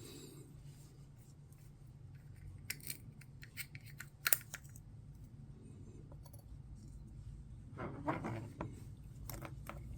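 Scattered small clicks and taps of craft items being handled on a work table, with one sharper click about four seconds in and a short rustling scrape near eight seconds, over a low steady hum.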